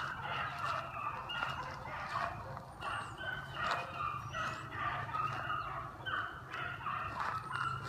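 A pack of beagles baying on a running track: many short, overlapping cries from several hounds at once, continuous throughout.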